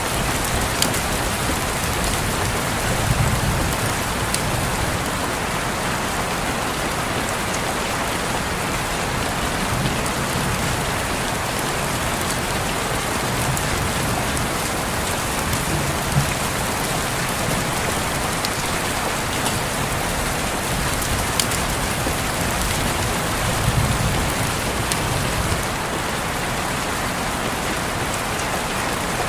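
Steady rain falling and pattering on a window, with single drops ticking here and there and a few brief low swells.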